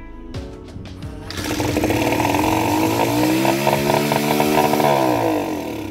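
Honda CB100N's small single-cylinder four-stroke engine catching on the fifth kick of the kick-starter after sitting unused since 1987, then running and being revved up and back down.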